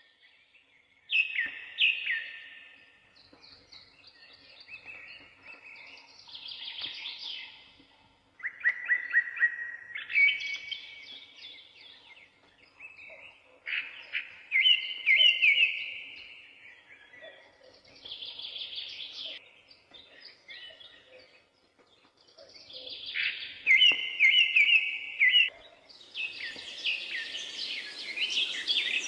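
Birds singing: short phrases of quick, chirping trills every few seconds, turning into a denser chorus over a steady hiss near the end.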